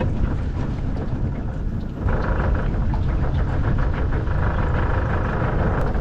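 Outboard motor of a small aluminum boat running under way, mixed with wind on the microphone and water noise. About two seconds in, a steady higher tone joins the low noise and holds until near the end.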